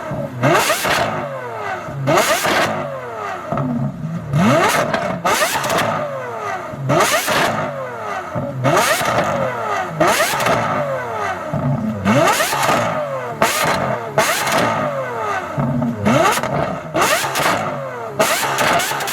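Supercar engine revved hard over and over, about every two seconds. Each rev climbs quickly in pitch and then falls away, often with a sharp crack at the top.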